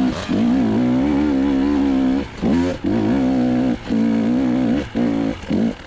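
Enduro motorcycle engine revving in a string of throttle bursts, each held a second or so with a wavering pitch, dropping briefly between them.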